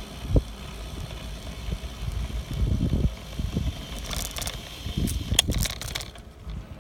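Bicycle ride noise: uneven wind rumble on the microphone, with a sharp click about half a second in and a cluster of clicks and rattles from the bike between about four and six seconds in.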